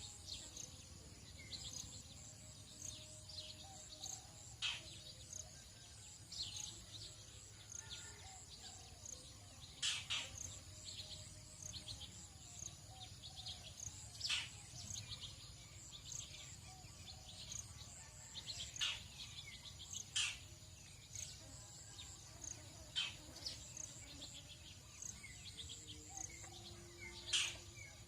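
Tropical dawn chorus: birds give short, sharp falling calls every few seconds over a steady high insect buzz and a low rumble.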